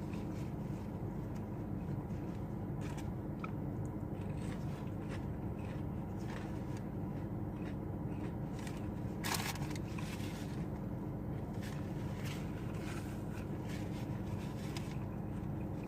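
Close-up chewing and crunching of fast food, with many small crisp clicks over a steady low hum, and one louder crunch or rustle about nine seconds in.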